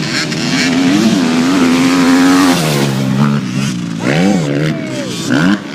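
Motocross bike engine revving hard: the pitch climbs and holds high, drops sharply about two and a half seconds in, then rises and falls in quick bursts of throttle near the end.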